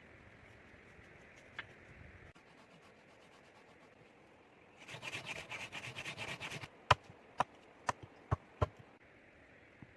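Rough scraping or rubbing for about two seconds, then five sharp knocks about half a second apart, the first the loudest.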